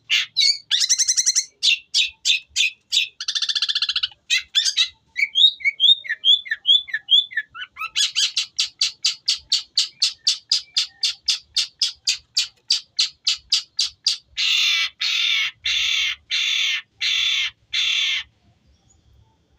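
Long-tailed shrike (cendet) singing a long run of mimicked kingfisher (tengkek buto) calls: harsh repeated notes, a long even series at about four a second, then five longer rasping notes before it stops near the end.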